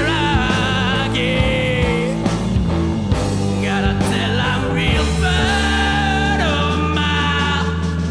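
Rock music: a band playing with sustained bass and a wailing, bending lead line over it, probably guitar.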